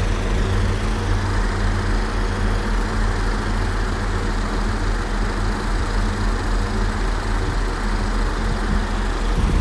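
Diesel multiple unit engines idling at a standstill: a steady low drone with no revving.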